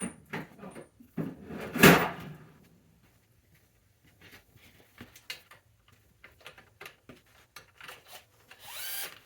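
Hand tools being handled on a bike: a loud metal clatter about two seconds in, then scattered small clicks and a short scrape near the end.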